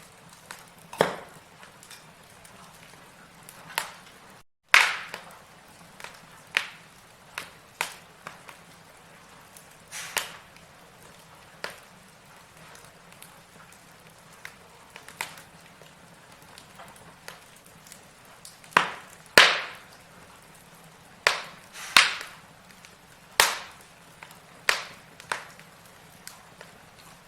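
Burning logs in a fireplace crackling: irregular sharp pops and snaps, a few of them much louder, over a faint steady low hum. The sound cuts out completely for a moment about four and a half seconds in.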